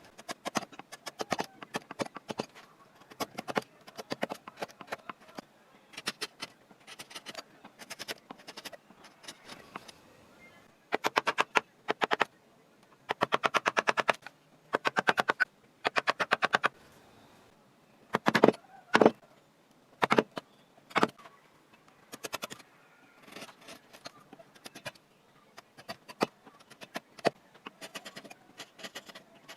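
Wood carving by hand: sharp taps and clicks of a carving tool against wood, with several quick runs of rapid strikes through the middle and two louder hits a little past halfway.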